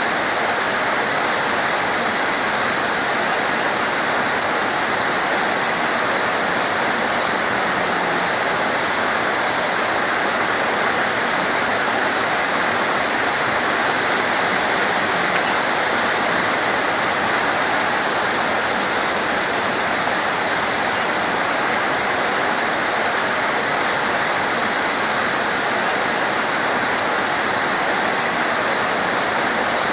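Heavy torrential rain falling in a steady, dense hiss, with two faint sharp ticks, one early and one near the end.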